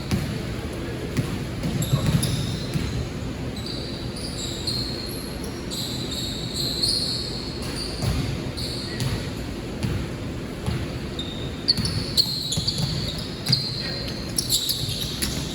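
Basketball game in an echoing gym: a ball bouncing on the court, many short high sneaker squeaks, and indistinct players' voices.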